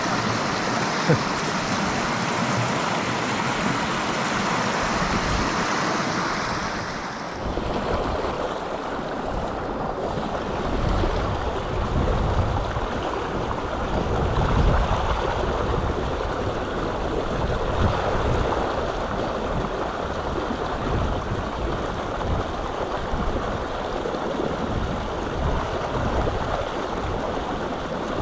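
Mountain stream rushing over rocks: a steady, even water noise. About seven seconds in it turns duller, with irregular low rumbles of wind on the microphone.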